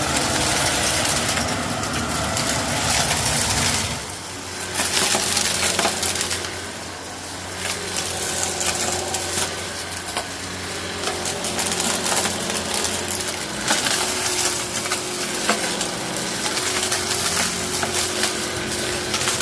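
Eureka Innova Upright Whirlwind upright vacuum running while it sucks up small aquarium rocks. The stones rattle and click constantly as they are drawn in, over the steady hum of the motor.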